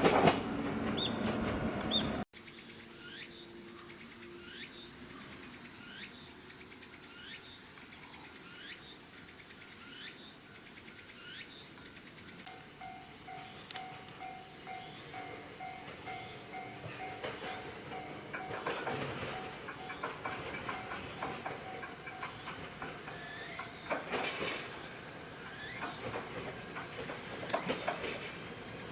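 An electric train running on the track, loud for the first two seconds, then cut off abruptly. After it comes a quieter outdoor scene: a short rising chirp repeating about every second, a steady high hiss, and a pulsing tone from about twelve seconds in.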